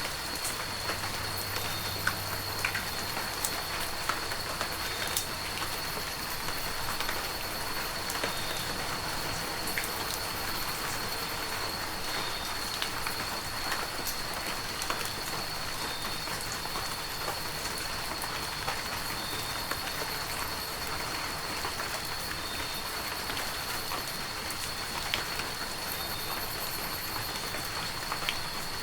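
Heavy rain falling steadily, with individual drops tapping close by. A thin, steady high tone runs underneath, with faint short chirps just below it every couple of seconds.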